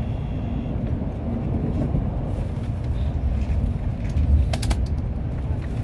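Steady low rumble of a Tokaido Shinkansen train running at speed, heard from inside the passenger cabin, with a few sharp clicks about four and a half seconds in.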